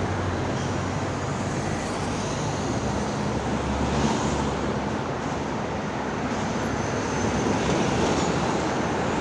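Roadside traffic: vehicle engines running with a steady low hum under continuous road noise.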